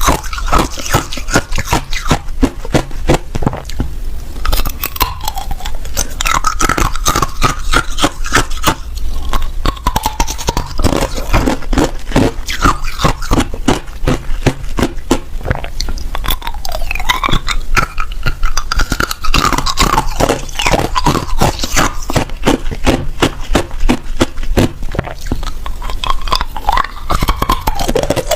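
A person biting and chewing hard ice close to the microphone: a continuous run of sharp crunches and cracks, with some scraping.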